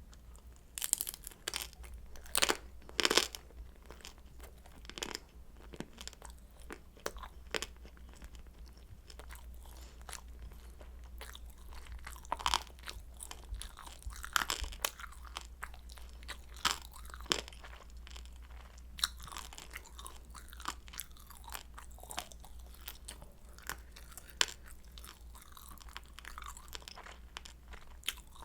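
Close-miked chewing of crispy pan-fried kimchi dumplings: irregular crunches and crackles of the fried wrapper, the loudest few in the first few seconds.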